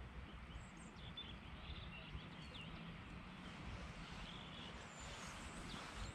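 Small birds chirping faintly now and then, with several short high calls, over a quiet outdoor hiss and a low rumble.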